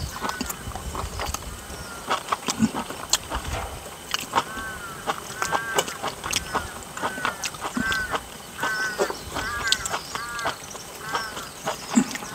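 A bird, such as a goose, giving repeated short calls, about two a second through the latter two-thirds, over scattered sharp clicks.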